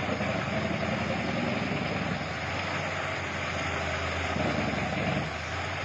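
Heavy wood-processing machine with a large diesel engine running steadily, its low drone shifting a little a couple of times.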